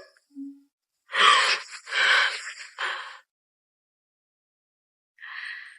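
A person's breathy gasps, three in a row over about two seconds, with a fainter breathy sound near the end.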